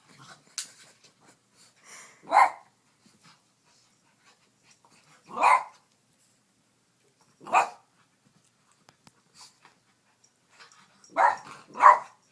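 A dog barking in single, separate barks while playing with a toy: three spaced a few seconds apart, then two in quick succession near the end.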